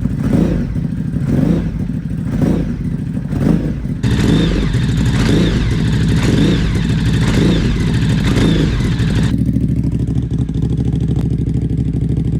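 Ducati Hypermotard 950 SP's L-twin engine through a titanium VanDemon exhaust with the baffle removed, blipped in neutral about once a second, then held at higher revs with the throttle rising and falling for about five seconds before dropping back to idle about nine seconds in. In neutral the revs are capped at around 3,000 rpm.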